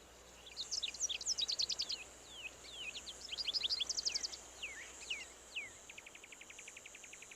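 Birdsong: quick down-slurred chirps and rapid trills, giving way near the end to a fast, even pulsing trill.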